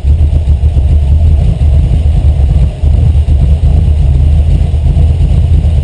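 Carburetted 5.0-litre V8 engine running steadily with a low, pulsing rumble, dipping briefly about three seconds in.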